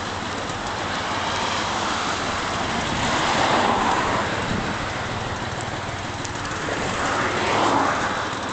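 Honda Gyro UP scooter's small engine running, swelling in loudness twice, about three and a half and near eight seconds in, as if revved.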